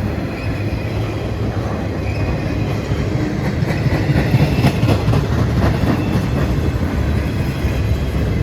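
CSX intermodal container train rolling past at track speed: a steady rumble of cars, with a run of wheel clacks over rail joints about midway through.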